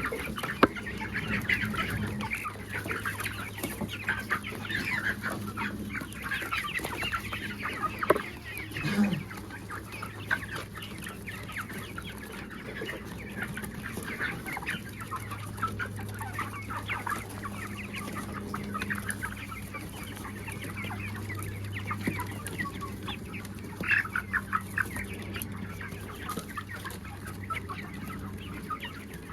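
A flock of desi chickens clucking continuously, many short overlapping calls, over a steady low hum.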